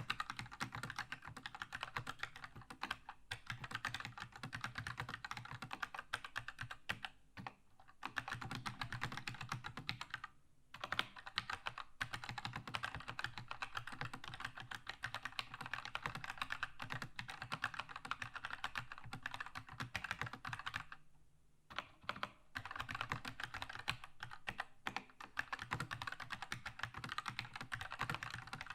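Continuous fast typing on a Keychron K2 mechanical keyboard with linear red switches: a dense run of key clacks, broken by short pauses about seven, ten and twenty-one seconds in.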